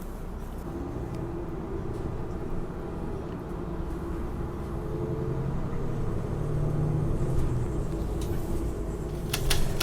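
City transit bus engine running, a low rumble with a steady hum that grows louder toward the middle. Near the end, a quick run of sharp clicks starts.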